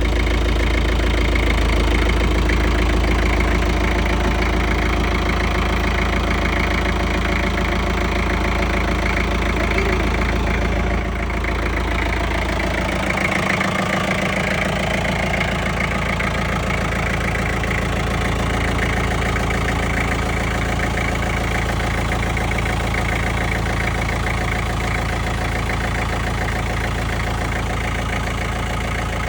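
A motor-vehicle engine idling steadily, with an even low pulsing, easing slightly in level about eleven seconds in.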